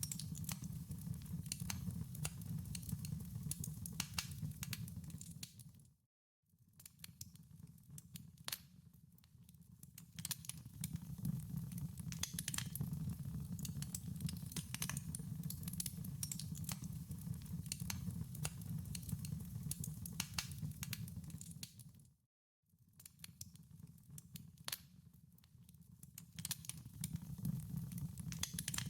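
Wood fire crackling in a fireplace: irregular sharp pops and snaps over a steady low rumble of the burning logs. The sound dips to silence twice, briefly, about six seconds in and again near two-thirds of the way through.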